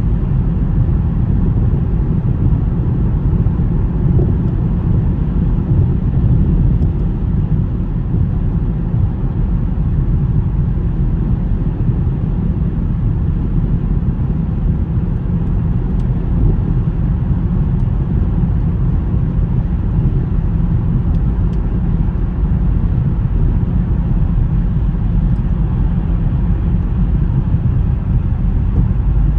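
A car driving, a steady low rumble of engine and road noise with no change through the stretch.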